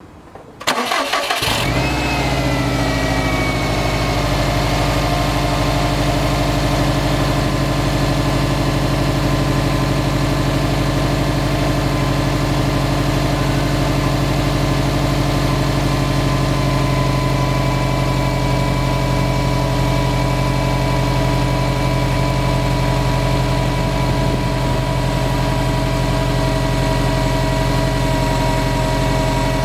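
2009 Subaru Impreza WRX STI's turbocharged flat-four engine being started, catching about half a second in and dropping to a steady idle within the next few seconds. It runs with the tick or light knock that follows engine speed, a noise the owner cannot identify.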